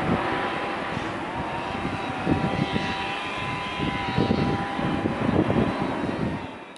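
Jet airliner's engines during takeoff: a steady rushing noise with a two-note whine, and gusts of wind buffeting the microphone. The sound fades out near the end.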